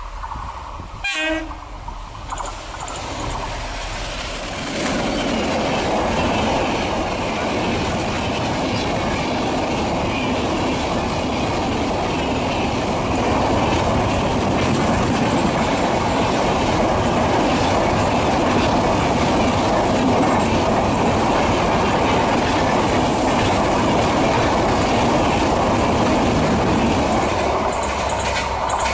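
Passenger train behind an electric locomotive approaching and passing close by. The noise swells about five seconds in as the locomotive reaches the lineside. Then comes a steady rumble of wheels on rail as the coaches run past, louder still from about thirteen seconds in.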